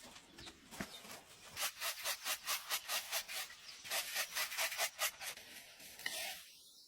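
Quick repeated scraping strokes, several a second, like something being rubbed back and forth by hand. They start about a second and a half in and stop near the end.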